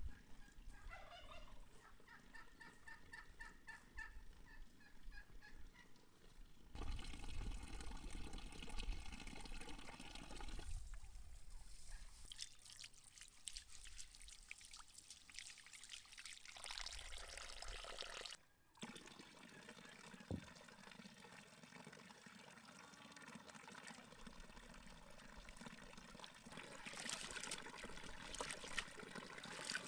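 Farmyard fowl calling faintly, with a rapid, rattling call in the first few seconds, followed by stretches of faint outdoor noise broken by abrupt cuts.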